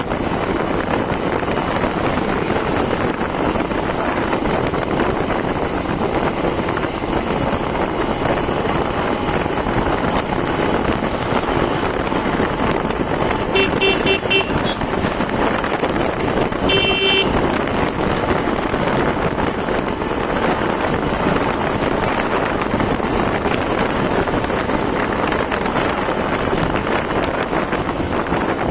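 Steady wind and road noise on a moving motorcycle. About halfway through, a vehicle horn sounds twice, each time as a quick run of rapid beeps.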